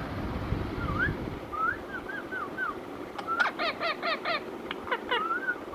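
Ringneck parrot calling: a string of short chirps gliding up and down, then a quick run of about five harsh squawks in a row, followed by a few clicks and more chirps near the end.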